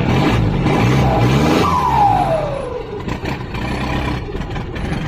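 Motorcycle engine running through a short open exhaust stub with no proper pipe fitted, rising and falling in revs while being ridden. About a second and a half in, a single tone slides down in pitch for about a second.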